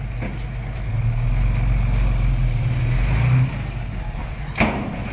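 Heavy diesel engine running, working harder and louder from about a second in, then easing back after about three and a half seconds. A single sharp knock near the end.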